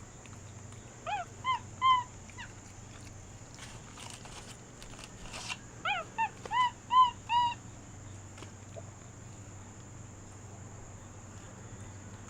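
Short, high-pitched animal cries in two runs, three quick calls, then a pause, then five more, each call rising or arching in pitch.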